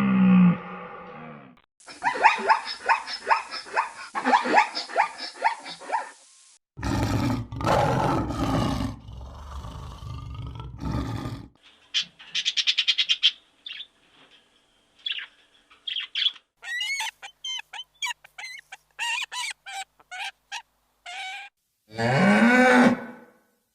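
A run of different animal calls, cut one after another: first a fast series of repeated calls, then a loud, rough call lasting several seconds. After that comes a short rapid trill, a scatter of high chirps, and a short arched call near the end.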